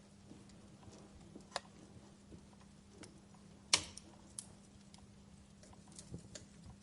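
Wood fire crackling in a fireplace: sparse, faint pops and ticks, with one louder pop a little past halfway. A thin steady hum runs underneath.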